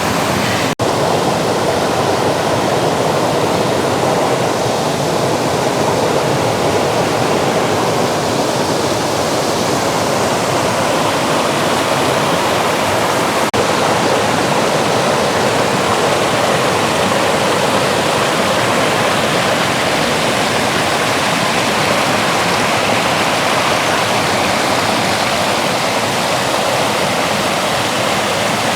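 River water rushing over a small waterfall: a loud, steady rush of water that breaks for an instant about a second in and again near the middle.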